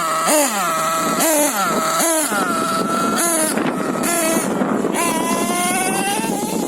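Small nitro engine (LRP ZR.28 Spec 4) of an RC monster truck, revving in a string of quick throttle blips, each rising and falling in pitch. From about five seconds in it is held on the throttle, its pitch climbing steadily.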